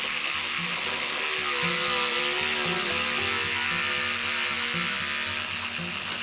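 Cordless reciprocating saw fitted with a bamboo-cutting blade, running steadily as it saws through bamboo. Background music with a steady beat plays underneath.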